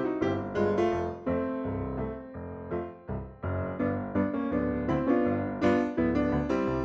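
Light, jaunty silent-film-style piano music, notes struck in a brisk, bouncy rhythm.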